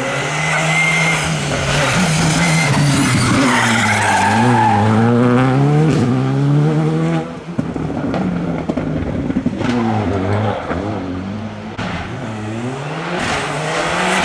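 Rally car at full attack, its engine revving hard and rising and falling in pitch through repeated gear changes, with tyre squeal. About halfway the engine cuts off sharply as the driver lifts, then it picks up and revs again near the end.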